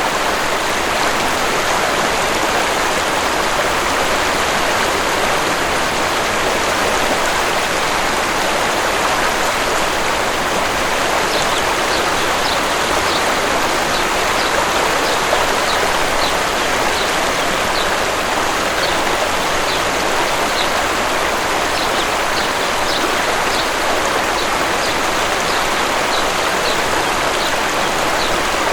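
Steady rushing of a waterfall's falling water. From about eleven seconds in, a small bird chirps over it in a quick series of short, high notes.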